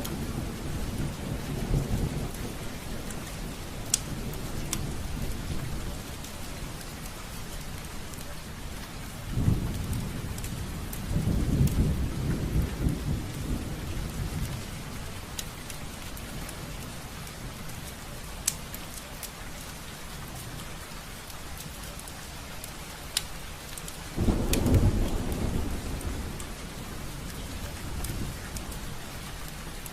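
Steady rain falling on a window, with sharp drop taps now and then, and rolls of distant thunder: one dying away at the start, more rumbles from about 9 to 14 seconds in, and the loudest roll about 24 seconds in.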